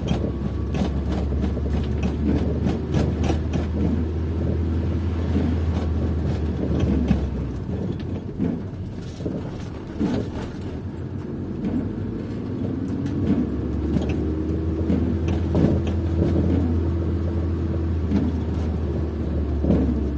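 In-cabin sound of a car driving: engine and road noise under a steady low drone that fades about seven seconds in and comes back about thirteen seconds in, with many scattered light taps throughout.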